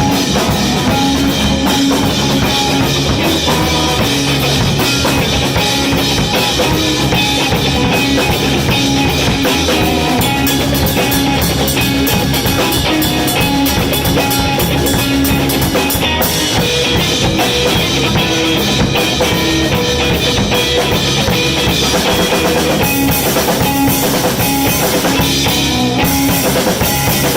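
Live blues-rock band playing: drum kit and electric guitar with bass, loud and steady.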